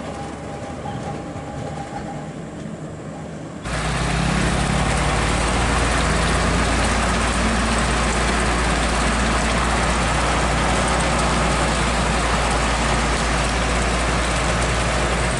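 Heavy truck engine running. About four seconds in, it jumps suddenly to a much louder, steady, deep rumble.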